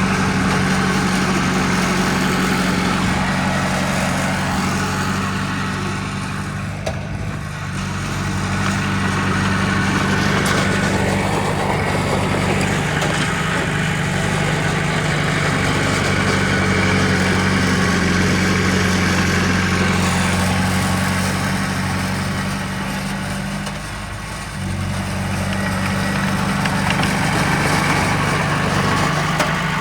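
Heavy diesel engine of an earthmoving machine running steadily, its note easing off briefly twice, about a quarter of the way in and again past three-quarters of the way through.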